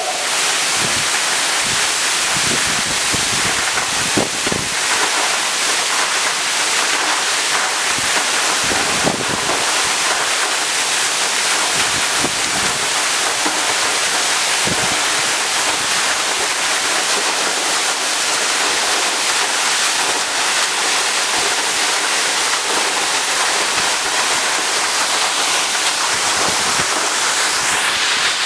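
Large waterfall crashing down with a steady, loud rush of falling water. Short gusts of wind and spray buffet the microphone now and then.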